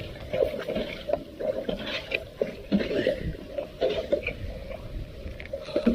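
Floodwater splashing and sloshing around a clogged storm drain, with irregular knocks and scrapes as debris is worked loose from it.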